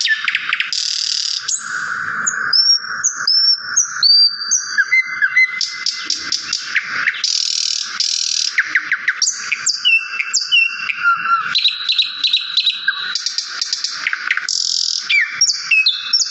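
Many small songbirds chirping and calling at once: a dense, continuous chorus of rapid chirps, trills and short whistles.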